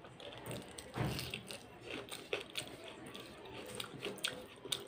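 Close-up mukbang eating sounds: a mouthful of rice, dal and fried fish being chewed, with many short wet mouth clicks and smacks and one louder low bump about a second in.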